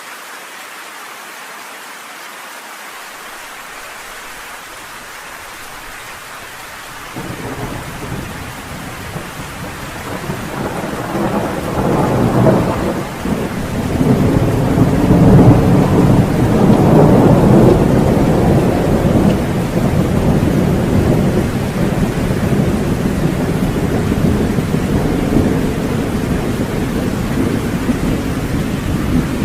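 Steady rain hissing, then a long roll of thunder breaks in about seven seconds in. It swells to its loudest about halfway through and keeps rumbling over the rain, easing only slightly.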